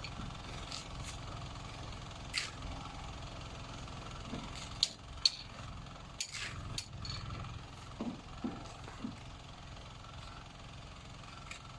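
Building-site work sounds: a steady low rumble with scattered sharp knocks and taps, the loudest few bunched around the middle.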